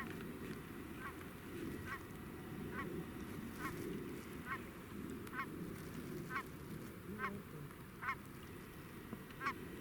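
Canada goose honking, a short call repeated steadily about once a second.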